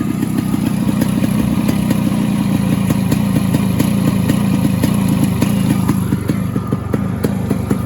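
Yamaha RX100's 98 cc two-stroke single-cylinder engine running with the bike standing, its exhaust beat coming through a muffler with a small cut in it. The engine is bored 2 mm oversize. The beat is fast and even, then slows into more separate pops about six seconds in as the revs drop.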